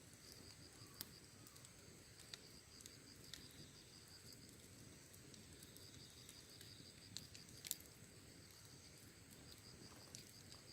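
Faint wood fire crackling, with a handful of sharp pops, the loudest about three-quarters of the way in, over a steady high pulsing chirr of insects.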